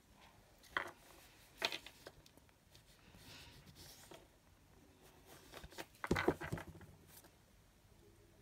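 Paper and rubber stamping supplies being handled: a few soft taps and rustles, with a short, louder cluster of knocks and rustling about six seconds in.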